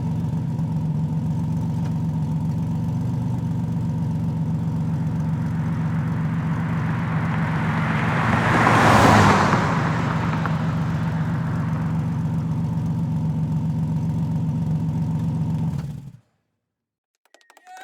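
A car engine running at a steady speed, with a whooshing swell that rises and falls about nine seconds in. The sound cuts off abruptly near the end.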